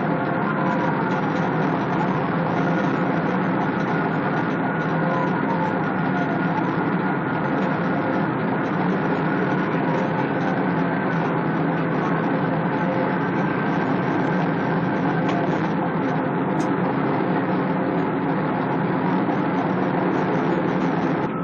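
Steady engine and road noise from a vehicle travelling at speed, with faint siren wails gliding in pitch.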